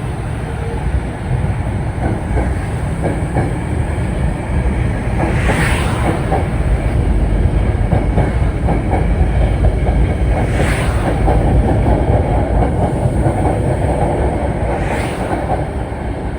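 Metro-North commuter train moving through the station, a steady heavy rumble with rapid clickety-clack of wheels over rail joints.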